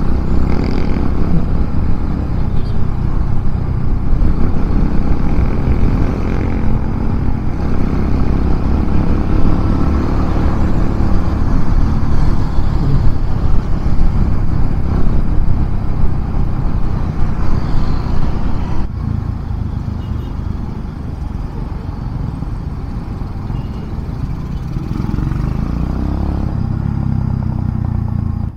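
Kawasaki W175's single-cylinder four-stroke engine running under way, breathing through an oversized 30 mm flat-slide carburetor in place of the stock 26 mm one. It pulls hard for most of the time, then eases to a quieter, lighter-throttle note about two-thirds of the way through.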